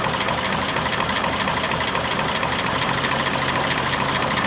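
1926 Oakland's six-cylinder engine idling steadily, running on engine vacuum to draw fuel up from the tank into its vacuum canister while the fuel system is flushed.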